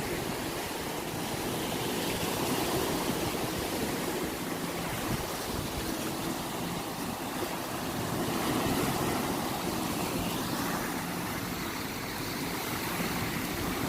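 Steady rushing wash of ocean surf and moving sea water, with a faint low hum underneath.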